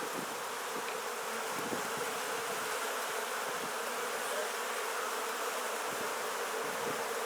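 Steady buzzing hum of a colony of honeybees in an opened Langstroth hive during a frame inspection.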